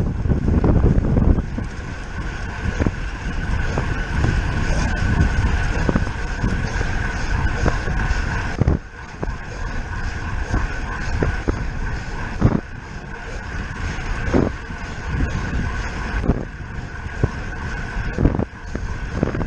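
Wind rushing over the camera microphone of a road bicycle at racing speed, with a steady thin whine and a few sharp knocks from the bike.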